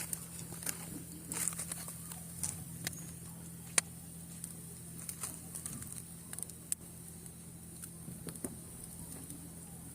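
Wood bonfire crackling, with irregular sharp pops and snaps, one louder pop a little before four seconds in, over a steady low hum.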